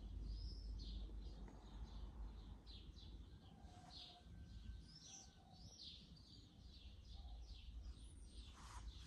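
Birds chirping faintly in a steady run of short high calls, about two a second, over a low rumble.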